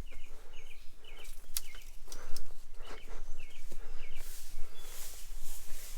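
Footsteps crunching through weeds outdoors, with a bird chirping in short paired notes several times.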